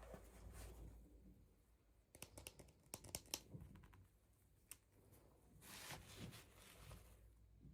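Faint handling of toy packaging: a quick run of small plastic clicks and taps, then a soft rustle about six seconds in.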